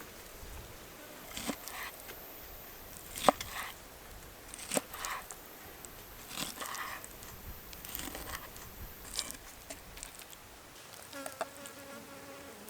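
Scattered sharp clicks and knocks, the loudest about three seconds in, then an insect buzzing from about eleven seconds in.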